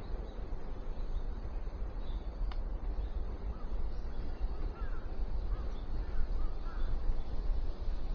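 A run of about eight short bird calls in quick succession in the second half, over a steady low rumble.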